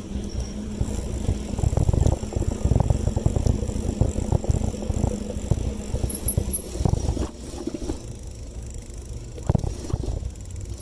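A bicycle being ridden, with wind buffeting the microphone and many small knocks and rattles from the bike over the road, easing off about seven seconds in.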